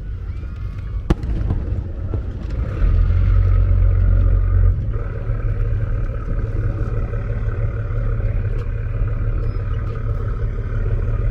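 Fireworks bursting over the sea: a sharp crack about a second in, then a heavy low rumble of booms for about two seconds. After that comes a steady low hum.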